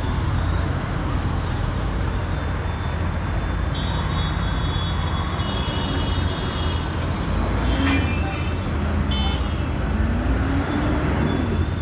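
Engine rumble and road noise inside a moving non-AC city bus, with traffic noise coming in and a horn sounding briefly now and then.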